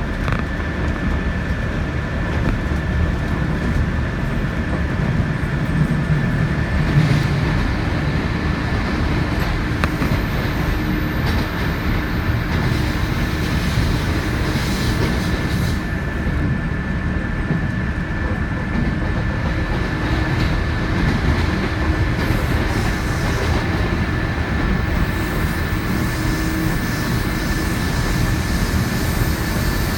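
Odoriko limited express train running along the line: a continuous rumble of wheels on rails with clickety-clack, and a faint steady high whine.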